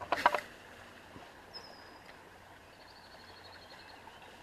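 A brief word from a man's voice at the start, then faint birdsong: a thin high whistle, followed by a quick run of high repeated notes lasting about a second.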